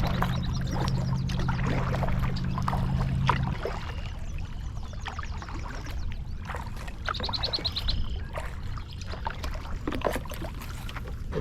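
Cordless-drill-driven kayak propeller motor running with a steady hum, which stops about three and a half seconds in. Water sloshing with scattered knocks follows, and a short high chirping call comes about seven seconds in.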